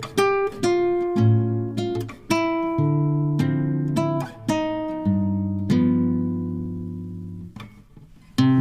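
Acoustic guitar music: plucked notes and strummed chords that ring and fade, with a short pause about three-quarters of the way in before a fresh chord.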